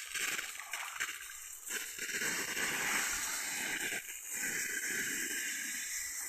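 Water splashing and sloshing, an uneven rushing noise that swells and eases.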